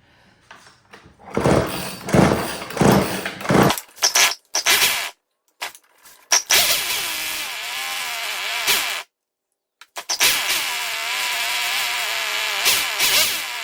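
Craftsman 2.3 chainsaw's two-stroke engine being pull-started. After a few rough strokes it catches, runs with its speed wavering, stops abruptly, then runs again. It needs its carburetor adjusted.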